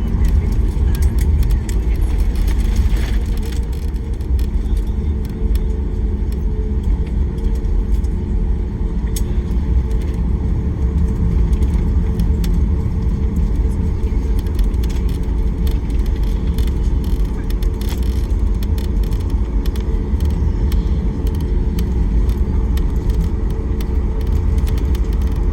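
Steady low rumble of an airliner's jet engines and airframe heard from inside the cabin, with a few faint clicks and rattles.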